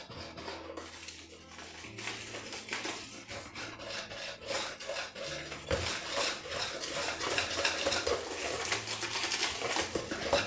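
Fast rhythmic rasping as flour and cocoa powder are sifted through a hand sieve and worked into chocolate cake batter with a whisk. It grows louder about two seconds in and again past the middle.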